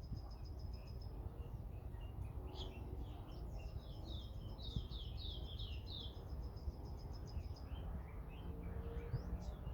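Songbirds singing: a fast, high trill repeating on and off, and about halfway through a quick run of about six falling chirps, over a steady low rumble.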